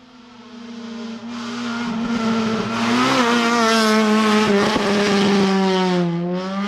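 Rally car engine held at high revs, growing steadily louder as the car approaches. Near the end the engine note dips briefly, then climbs again.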